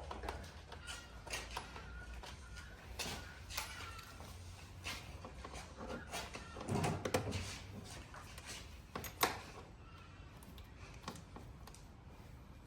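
Scattered plastic clicks and knocks as pieces of a BMW F80 M3's front grille are prised and pulled off by hand. A louder rubbing scrape comes about seven seconds in, and a sharp click just after nine seconds.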